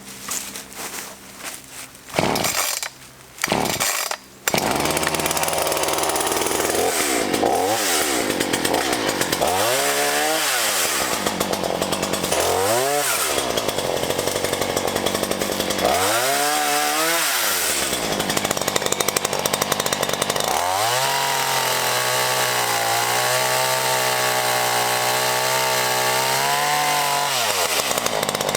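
Black Max 16-inch two-stroke gas chainsaw. It gives a few short sputters, then keeps running about four seconds in. The engine is revved up and down several times, then held at high speed for about six seconds with a steady pitch, and eases off near the end, as it cuts through a small tree's trunk.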